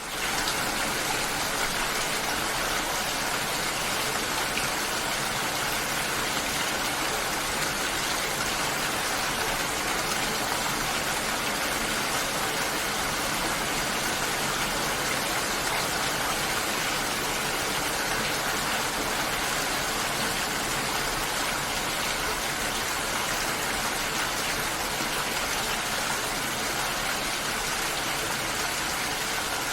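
Steady, even rush of water, fading in at the very start.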